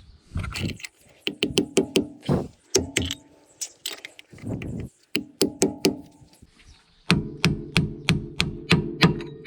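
Quick runs of metallic clicks and taps on the front wheel hub, each run with a short ringing metal tone under it, in four bursts with brief pauses between; the last and longest comes near the end.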